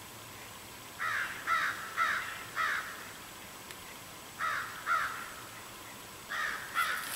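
A bird calling in short, harsh repeated notes: a run of four, a pause, two more, then another two near the end.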